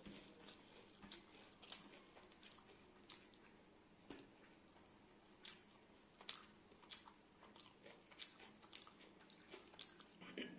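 Faint close-miked chewing of a meal: soft, wet mouth clicks and smacks, irregular, about two a second.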